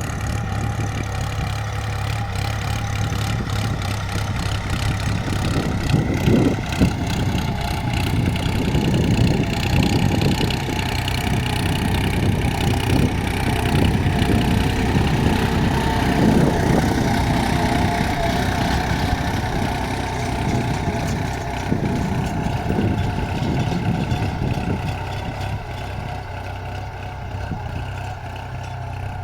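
New Holland tractor's diesel engine running steadily at low speed while pulling a cultivator through a wet paddy field.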